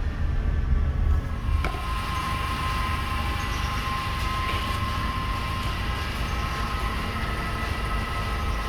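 Volkswagen Jetta Mk5 engine running with a steady low rumble. After a click about 1.7 s in, a steady high whine sets in and holds. It is likely the wind-like noise the owner traces to somewhere near the belt.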